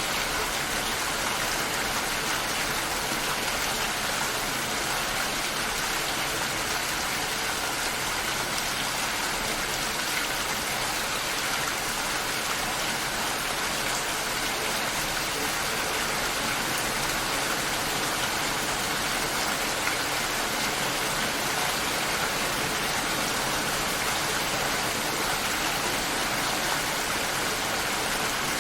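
Steady rain falling, an even hiss of drops with no breaks or single louder events.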